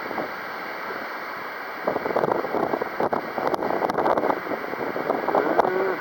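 Strong wind buffeting the microphone, a rushing noise that gusts harder from about two seconds in.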